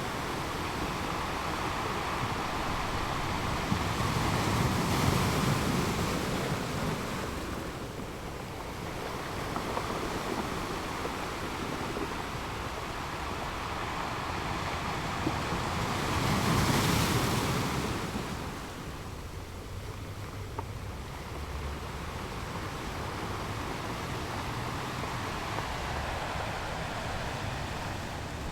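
Ocean surf rolling onto a shore: a continuous wash of water with two bigger waves swelling and breaking, about five seconds in and again a little past the middle.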